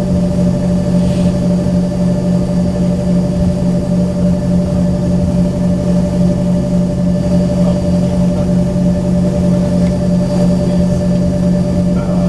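Embraer ERJ-135's rear-mounted Rolls-Royce AE3007 turbofan engines idling, heard inside the cabin: a steady drone with a low hum and a higher whine that does not change.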